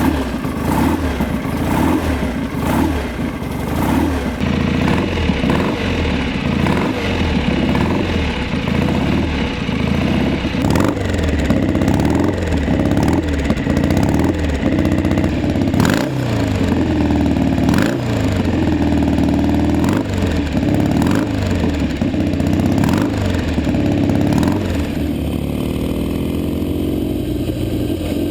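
1967 BSA Spitfire's 650 cc parallel-twin engine running just after a kick start, the throttle blipped over and over so the revs rise and fall about once a second. Over the last few seconds it settles to a steadier idle.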